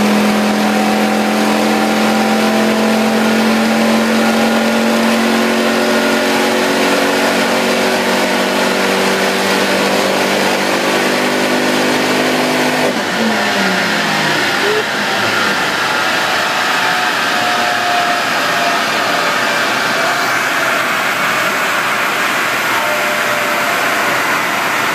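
Ford Focus ST's turbocharged five-cylinder engine, de-catted with a full Mongoose exhaust and on a stage 3+ remap, held under full load on a rolling road, its note climbing slowly as the revs rise. About thirteen seconds in the throttle closes and the engine note falls away over a couple of seconds. A steady loud rushing noise carries on after it.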